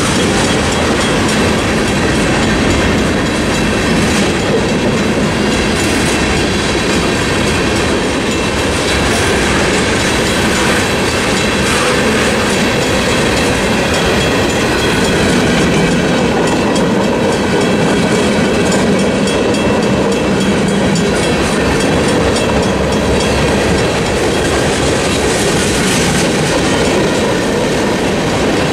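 Freight cars of a CSX mixed freight rolling steadily through a level crossing, their steel wheels running over the rails and the crossing. Behind that, the crossing signal's Western Cullen Hayes mechanical bell keeps ringing.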